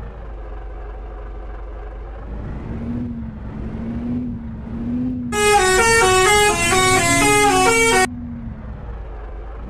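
Truck engine running, its pitch rising and falling gently as it works. About five seconds in, a musical horn plays a short stepping tune for nearly three seconds, louder than the engine, then cuts off suddenly.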